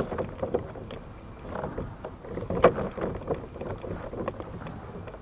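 Irregular knocks and clatters of handling on a plastic fishing kayak, the loudest about two and a half seconds in, over light wind rumble on the microphone.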